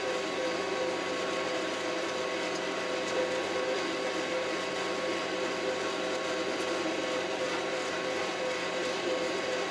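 Kioti RX7320 tractor running steadily, heard from inside its cab: an even drone with a steady whine.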